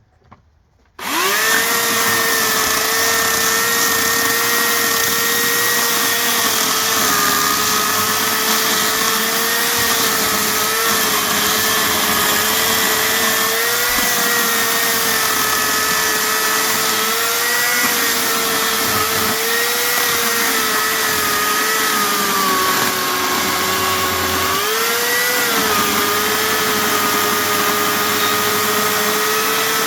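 Hawksmoor 2200W electric chainsaw starting about a second in and running steadily with a high whine. The pitch sags and recovers several times, most deeply a little past the middle, as the motor is loaded by cutting wood.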